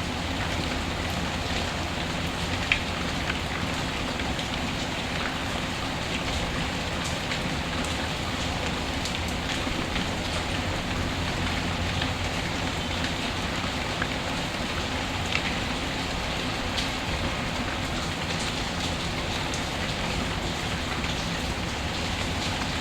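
Steady rain falling, mixed with the scattered sharp crackles of a wood fire, one louder pop about three seconds in.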